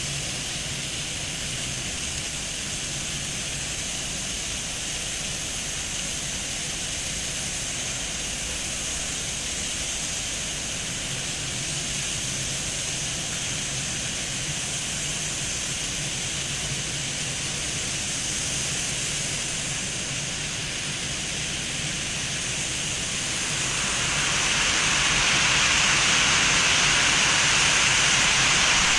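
Hydraulic truck tippler machinery running with a steady low hum and a faint high whine. About 24 s in, a louder rushing hiss sets in and holds.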